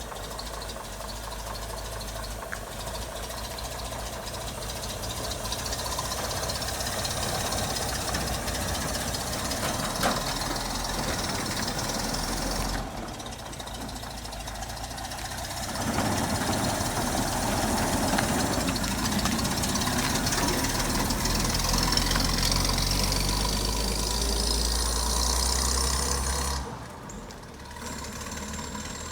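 1935 Chevrolet half-ton pickup's six-cylinder engine running. It drops off briefly, then runs louder for about ten seconds from just past halfway before settling back down near the end.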